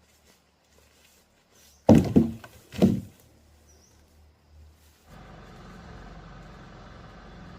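Two heavy thuds about a second apart, then, about five seconds in, a steady motor starts running.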